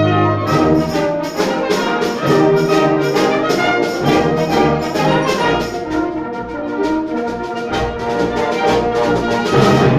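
Concert band playing loudly near the close of a piece, brass leading, with sharp accented chords repeated in a driving rhythm.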